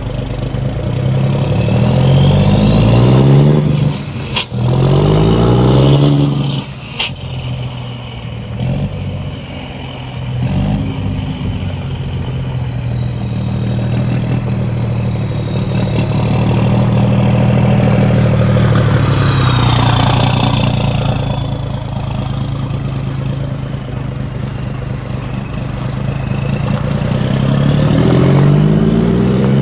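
A vehicle engine accelerating through the gears, its pitch climbing and dropping several times, then running steadily at speed for a long stretch before climbing again near the end. Two short sharp clicks sound about four and seven seconds in.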